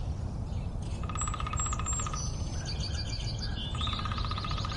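Birds calling: a fast rattling trill about a second in and another near the end, with other chirps and whistled notes between, over a low steady rumble.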